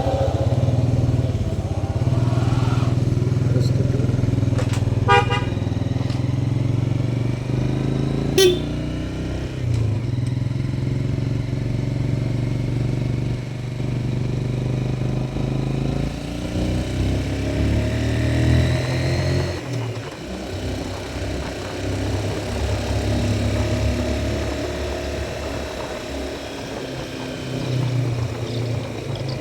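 Motorcycle engine running while riding, its pitch shifting as speed changes. Brief vehicle-horn honks come about five and eight seconds in.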